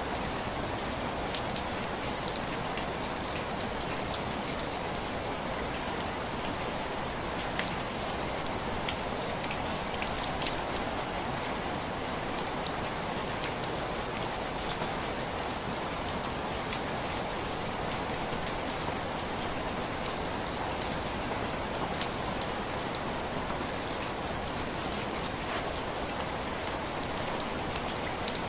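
Steady rain with scattered individual drops ticking against a window pane.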